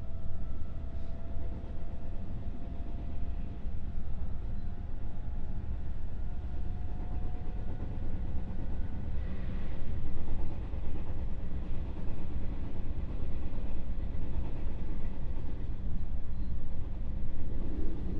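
Running sound inside the cabin of a JR West 221 series electric motor car: a steady rumble of wheels on the rails. A faint whine edges slightly up in pitch over the first several seconds.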